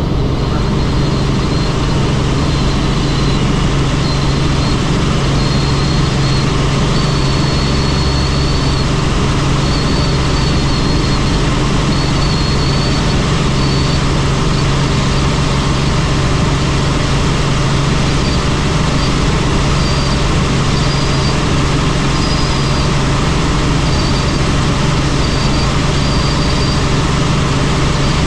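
Helicopter in flight: a loud, steady drone of engine and rotor, with a faint high whine that comes and goes.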